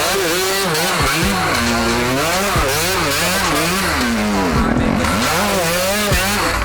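Small off-road vehicle engines revving hard, the throttle blipped so the pitch swings up and down about twice a second.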